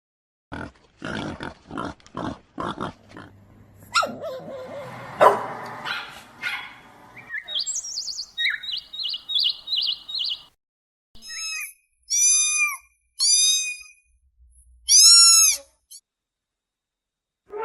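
A string of different animal calls: a quick run of short rough calls, then a rapid twittering trill of chirps, then four short arched, ringing calls.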